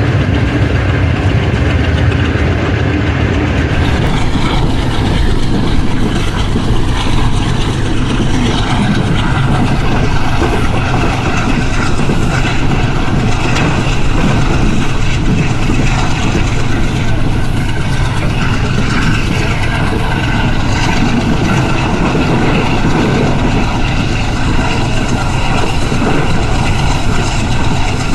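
AGE30 'Blue Tiger' diesel-electric locomotive and its train, loud and steady: a low engine hum in the first few seconds, then a broader, rougher noise from about four seconds in.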